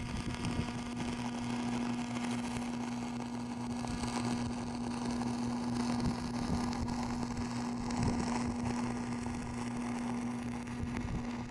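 A machine running steadily: a constant low hum over a hiss, unchanging throughout.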